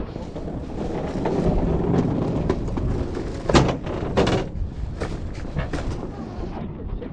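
Rumbling wind noise buffeting the microphone, with several sharp knocks in the middle stretch.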